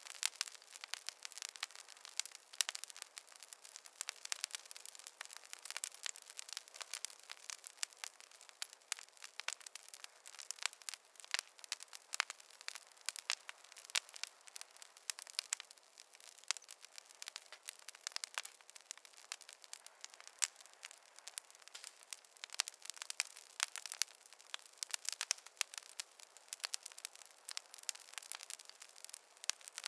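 Wood fire in a fireplace crackling: a steady stream of irregular sharp pops and snaps from the burning logs over a faint hiss.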